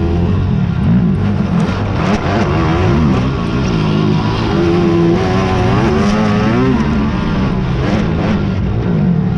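Engines of several big racing quads (ATVs) revving at once. Their overlapping pitches keep climbing and dropping as the riders work the throttles.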